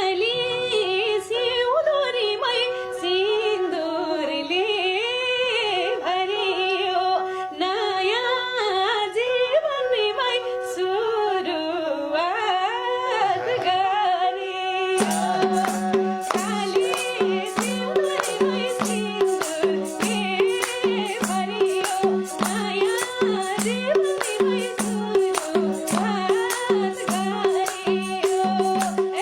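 A woman singing a Nepali song over a steady drone; about halfway through a regular percussion beat comes in under the voice.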